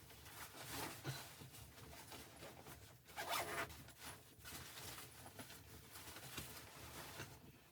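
A zipper being pulled in short rasping runs, the longest and loudest about three seconds in.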